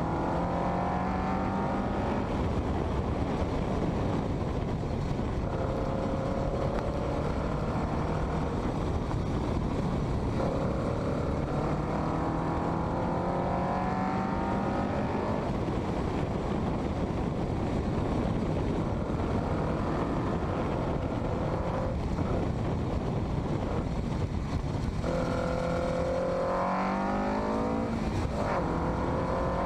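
Westfield kit car's engine accelerating hard through the gears on a track, its note climbing in pitch, dropping at each gear change and climbing again, several times over. Steady wind and road noise run underneath.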